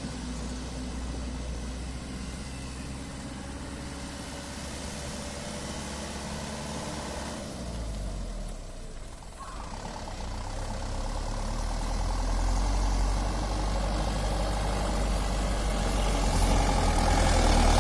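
Mitsubishi Canter light truck's diesel engine running with a steady low rumble. It dips briefly about eight seconds in, then grows steadily louder toward the end.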